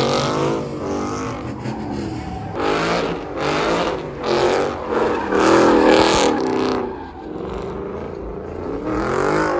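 A vehicle engine revving hard in repeated surges, the pitch climbing and falling again and again.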